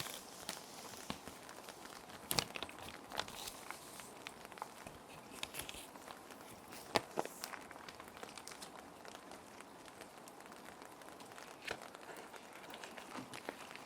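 Plastic sheet protectors being handled, with paper sheets slid into them: irregular soft crinkles and crackles, a few sharper ones about two and a half and seven seconds in. Under them runs a steady hiss of ambient rain.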